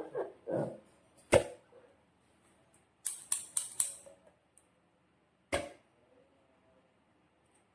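Slime and balloons being handled at close range: a sharp snap about a second and a half in, then a quick run of crisp crackling clicks, and another sharp snap near the end.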